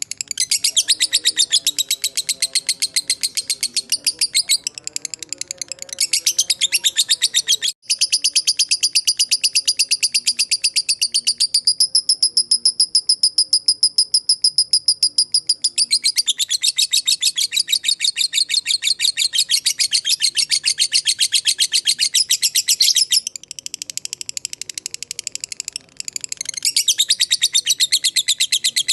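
Fighter lovebird ngekek: a long, very rapid chattering trill of high-pitched chirps, steadying into an even trill for a few seconds near the middle. The sound briefly cuts out about eight seconds in.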